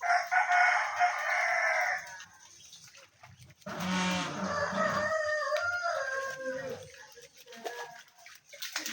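A rooster crowing twice: one call at the start and a longer one beginning about three and a half seconds in.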